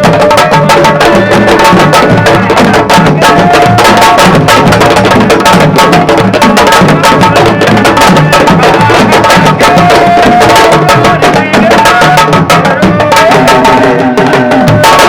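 Music: fast, dense sabar-style drumming, with a few long held melody notes over it.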